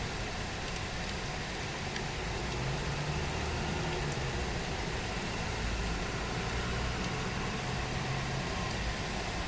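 Steady rain falling, an even hiss, with the low hum of a vehicle engine running underneath through most of the stretch.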